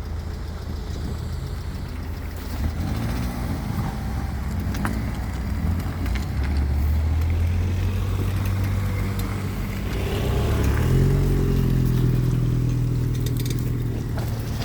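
A large engine running under load, its pitch wavering and then stepping up about ten seconds in as it speeds up.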